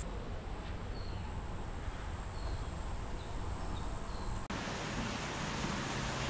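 Steady outdoor ambient hiss with a few faint short chirps, changing abruptly to a different, fuller hiss about four and a half seconds in.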